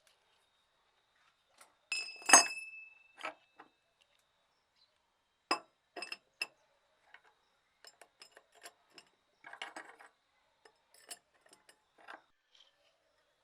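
Scattered clinks and light taps of hard objects being handled. The loudest is a short cluster about two seconds in with a brief ringing tone, followed by lighter, irregular taps.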